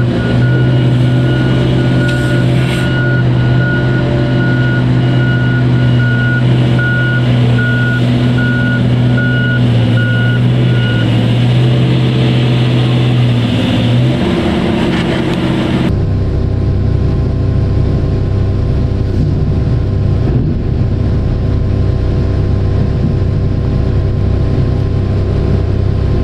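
Heavy mining machinery's diesel engine running steadily, with a reversing alarm beeping about once a second for the first eleven seconds or so. Near the end of the first two-thirds the sound changes suddenly to a different, lower-pitched engine running steadily.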